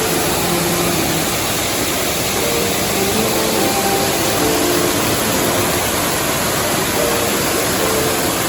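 Steady loud rushing of the River Mellte's fast-flowing water in its gorge, with a faint melody of held notes over it.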